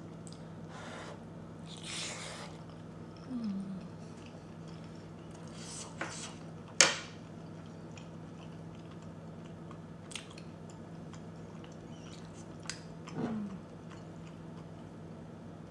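Close-up eating sounds of a person chewing a mouthful of creamy shrimp linguine, with a couple of short hums and a few sharp clicks, the loudest about seven seconds in.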